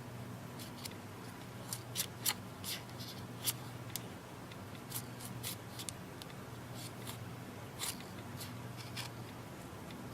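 Irregular small clicks and scrapes of a pry tool working under the edge of a tablet's glued screen assembly, breaking the adhesive. A steady low hum runs beneath.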